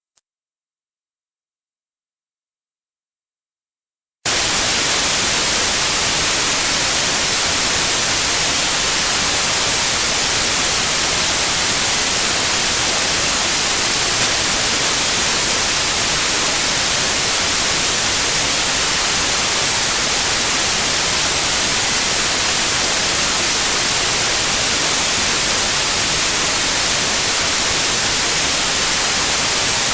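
Synthesized tinnitus-therapy sound: a steady pure tone at 9645 Hz, joined suddenly about four seconds in by steady white noise that continues alongside the tone.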